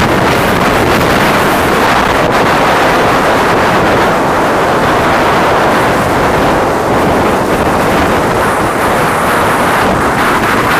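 Storm-force mountain wind buffeting the microphone: a loud, steady rush of wind noise.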